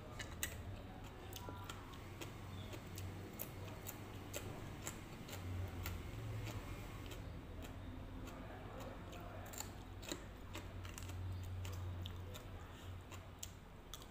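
Close-up chewing of crunchy shredded green papaya salad (som tam), a run of small crisp crunching clicks at an uneven pace, over a low hum.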